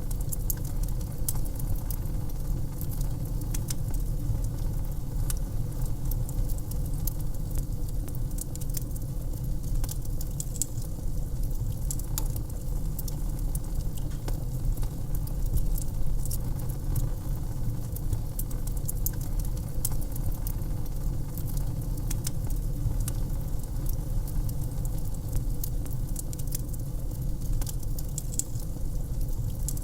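Wood fire burning in a fireplace: frequent sharp crackles and pops, irregular, over a steady low rumble.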